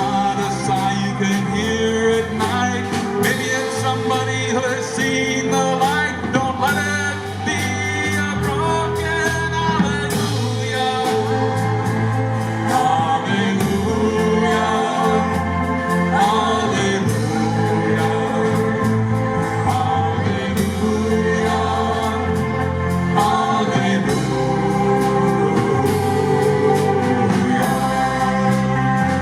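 Live band playing a slow song, with singing over a bass line and sustained chords.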